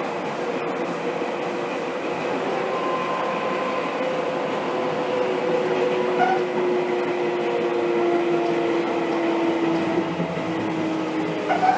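Interior running sound of a Seibu 2000 series train car (set 2097F) fitted with a Mitsubishi GTO-VVVF inverter. The inverter and motors give a few steady, drone-like tones over continuous wheel and rail rumble, with a couple of brief clicks.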